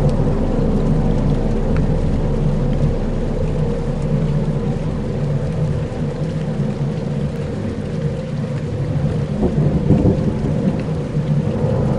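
Dark ambient soundscape: a dense, low rumbling drone, storm-like, with a few faint steady tones above it. It holds fairly even throughout and swells slightly near the end.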